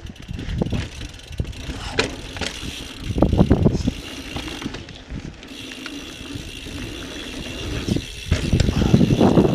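2017 Intense Recluse full-suspension carbon mountain bike ridden over a dirt trail: tyres rolling and crunching over the ground with rattles and clicks from the bike. It gets louder and rougher about three seconds in and again near the end.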